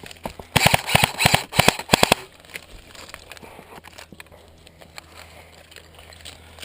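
Airsoft electric rifle firing on full auto: rapid clicking shots in a few short bursts lasting about a second and a half, starting about half a second in.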